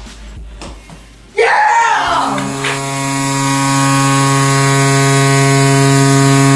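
Hockey goal horn sounding one long, steady, buzzing low tone for about four and a half seconds, after a sudden loud shout about a second and a half in.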